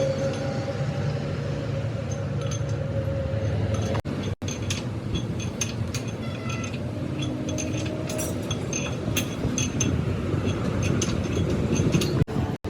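A machine or engine running steadily, with scattered metal clinks and taps over it. The sound breaks off for an instant about four seconds in and again near the end.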